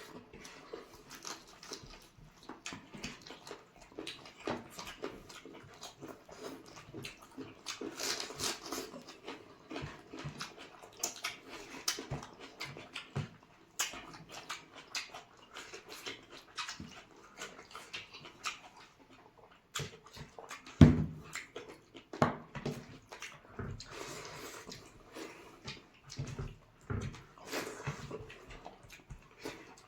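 Close-miked eating of chicken curry and rice: wet chewing, smacking and slurping, made up of many irregular short clicks, with one loud knock a little past the two-thirds mark.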